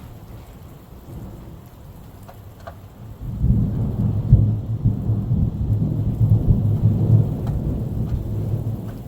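Steady rain with scattered drops. About three seconds in, a long low roll of thunder begins, swells and eases off near the end.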